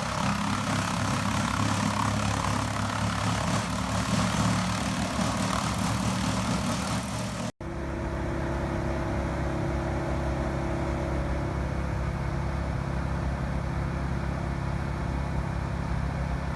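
Heavy machinery's engine running steadily with grinding noise on top; about seven seconds in the sound cuts abruptly to a second machine's engine running steadily, smoother and with less high-pitched noise.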